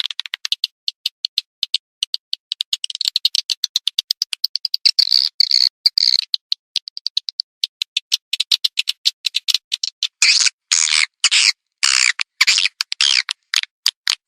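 Recorded swiftlet calls played as a lure: fast trains of high, short chirps and clicks, several to the second. In the second half they turn into longer, fuller chirps with brief gaps between them.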